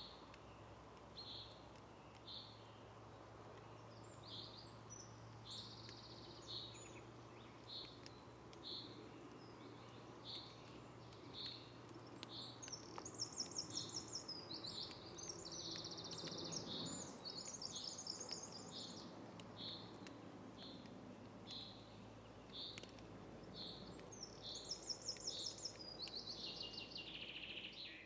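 Birdsong: a short high call repeated over and over, a little more than once a second, with bursts of fast trilling song in the middle and near the end, over a faint steady low hum.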